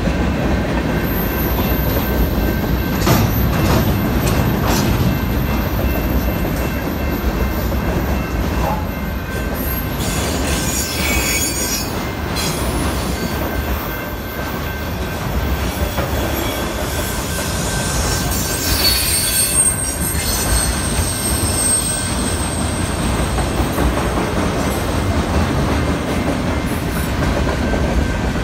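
Freight cars of a BNSF manifest train rolling past at a grade crossing: a steady wheel-on-rail rumble with a few clacks, and thin high-pitched wheel squeal in the first few seconds and again about two-thirds through.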